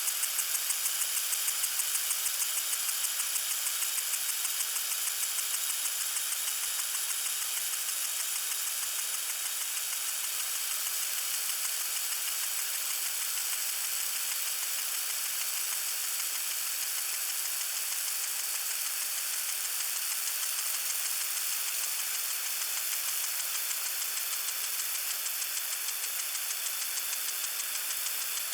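Garden water sprinkler spraying: a steady, hissing rush of spray with a fast, even pulsing chatter running through it.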